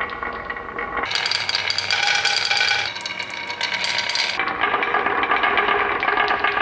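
Small toys rattling and clicking as they roll along a toy track, with ringing tones at several pitches that change abruptly a few times.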